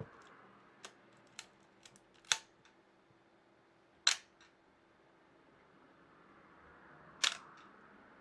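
Pentax Spotmatic film SLR being fired three times, each release a sharp mechanical clack of its mirror and cloth focal-plane shutter, the loudest near the end, with fainter clicks of handling and the film-advance mechanism in between.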